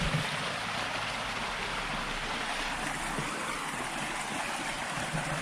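River water rushing over rocks, a steady even rush.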